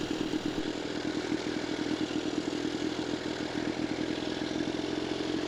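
Scott two-stroke twin motorcycle engine running steadily, with a fast, even beat.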